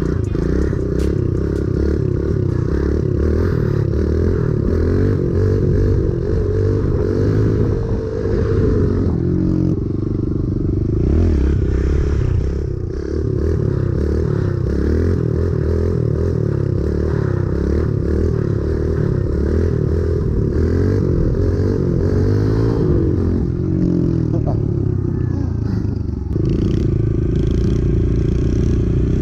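Small mini bike engine running hard as it is ridden, its pitch rising and falling with the throttle.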